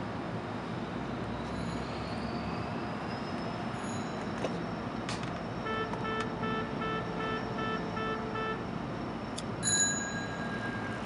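Bi-level diesel commuter train standing at a station platform, its locomotive idling with a steady hum. About six seconds in, a rapid electronic beeping signal from the train sounds for about three seconds, roughly three beeps a second, and near the end there is a short, louder sound.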